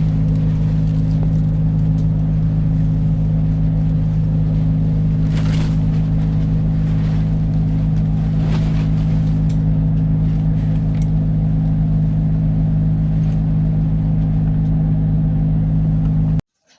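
A large engine running at a constant speed: a steady drone with a strong low hum and a few faint clicks over it, cutting off suddenly just before the end.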